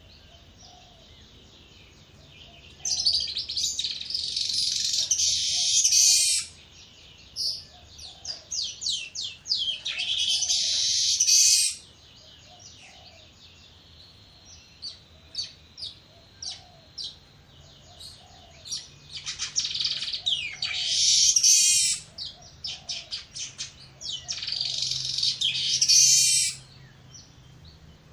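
Weaver birds singing: four long, high chattering song phrases, each building up louder and then cutting off suddenly, with short scattered chips between them.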